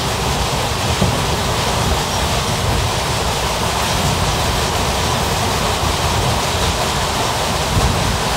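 Steady rushing rumble of a moving Indian Railways ICF passenger coach running along the track: wheel-on-rail and wind noise, with a few faint thumps.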